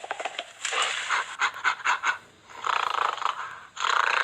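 Gorilla vocalizing in a run of short, breathy bursts with a few sharp clicks, then longer breathy sounds after a brief pause.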